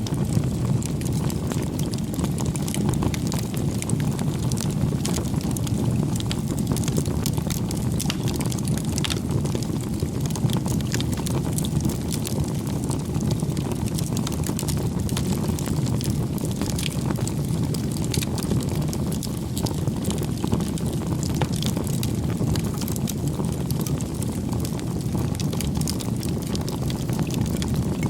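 Campfire burning: a steady low rush of flame with frequent small crackles and pops from the wood.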